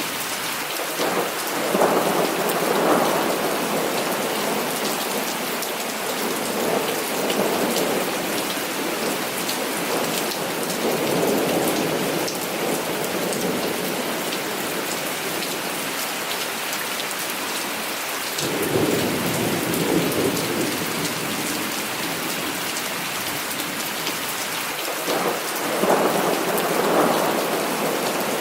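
Heavy rain falling steadily, with about five rolls of thunder that swell and fade every few seconds.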